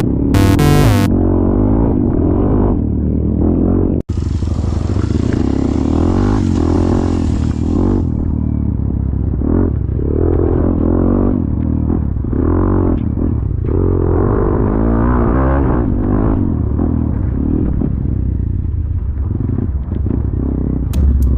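Motor vehicle engine running while driving, its pitch rising and falling repeatedly as it revs up and eases off. Music cuts off about a second in, and there is a brief dropout a few seconds later.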